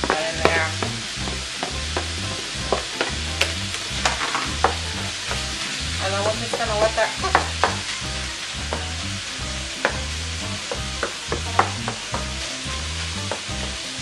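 Ground beef and onions sizzling in a frying pan while a wooden spatula stirs and scrapes, with frequent knocks and clicks of the spatula against the pan. Squeaky scraping comes briefly about half a second in and again around six to seven seconds in.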